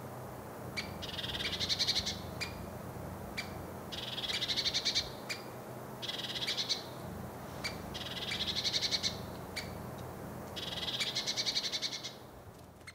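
Lesser spotted woodpecker giving its warning call: five quick series of high, rapidly repeated notes, each about a second long, with single sharp notes between them.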